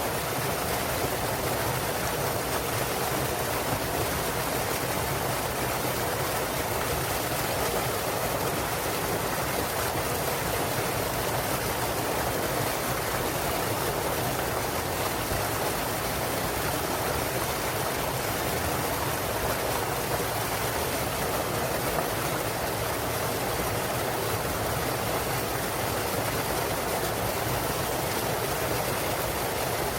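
Mountain stream running over a small waterfall: a steady, unbroken rush of water.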